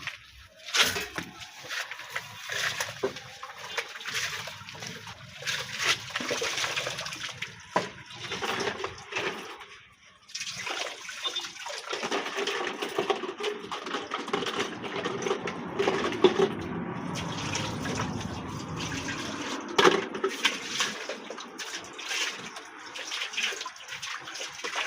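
Water pouring and sloshing as cooking pots are washed by hand, with scattered knocks and scrapes of the pots.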